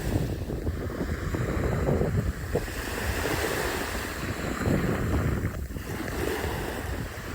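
Wind buffeting the microphone, a steady gusting rumble.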